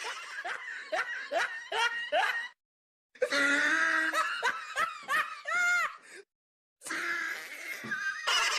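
People laughing in three short clips, each ending in a hard cut to dead silence, about two and a half seconds in and again about six seconds in.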